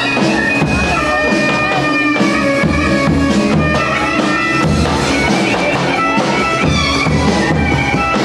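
Loud folk dance music: a piercing reed wind instrument plays a sustained, wavering melody over a steady drum beat.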